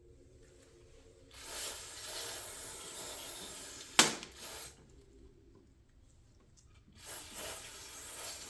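Two long hissing bursts of spray blown through a lawnmower carburetor while it is being cleaned, with a sharp click between them.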